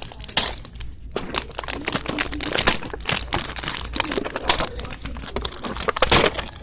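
Plastic Lunchables packaging crinkling and crackling as it is handled and opened, in irregular rustling clusters with a louder burst near the end.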